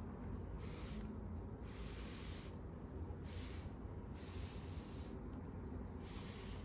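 Hair dryer blowing with a steady low hum, its airflow swelling into a hiss five times as it is swept back and forth.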